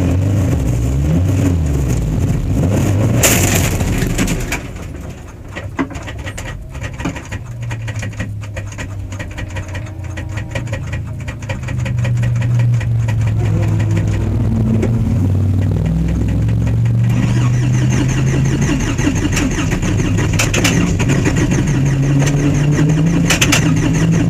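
Modsports Lotus Elan race car's engine heard from onboard. It runs hard, then drops to a lower, quieter note about five seconds in as the driver lifts off. From about twelve seconds it pulls hard again, its pitch climbing in steps through the upshifts.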